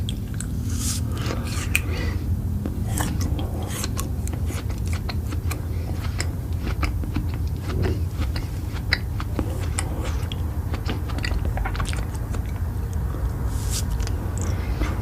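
A person chewing and biting food close to the microphone, with many quick, irregular sharp clicks of mouth and food noise over a steady low hum.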